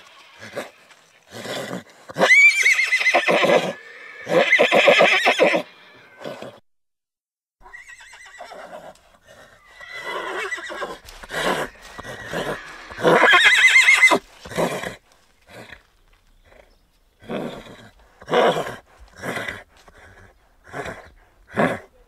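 Horses whinnying: several long, shrill neighs that rise sharply in pitch and then fall away. Near the end they give way to a run of short, separate calls about a second apart.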